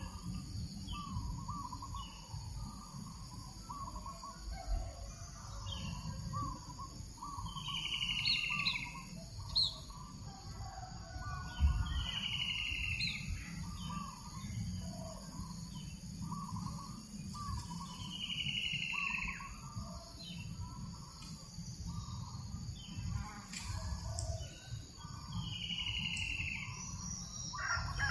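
Birds calling: one bird repeats a short call that falls in pitch every few seconds, over many short chirps from other birds. A gentle breeze rumbles low on the microphone underneath.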